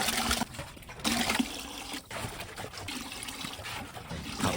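Liquid pouring and trickling in uneven spurts, breaking off briefly about half a second and again about two seconds in.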